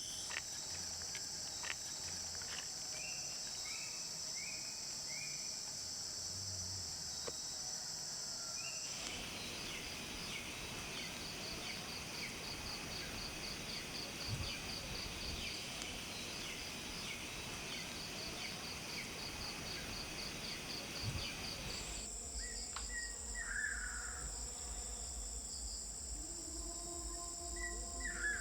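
Insects droning steadily at a high pitch, with short bird calls over them: a run of four quick notes about three seconds in and a few calls near the end. The insect background changes abruptly twice.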